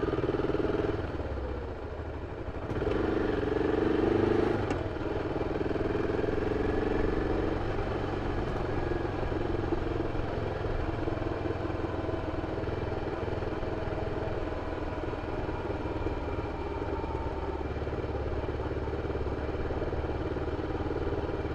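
BMW F 650 CS single-cylinder engine running through its original exhaust. It gets louder briefly right at the start and again about three seconds in, then runs steadily.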